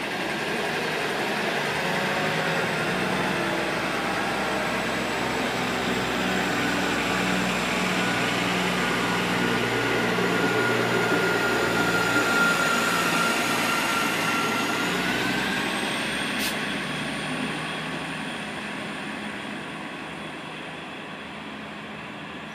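Passenger train running past along the platform: a steady rumble of wheels on rails with a high whine that rises in pitch about fifteen seconds in. A single sharp click comes soon after, and the train fades as it moves away.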